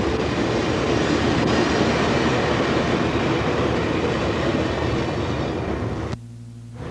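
Amtrak Desert Wind passenger train running along the track, a steady rumble of wheels on rail. The sound cuts off abruptly near the end, leaving only a low hum.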